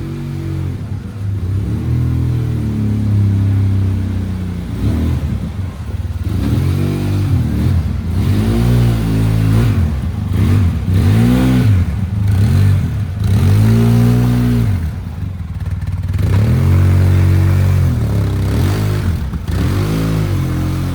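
Quad bike engine revving up and dropping back again and again, its pitch rising and falling many times.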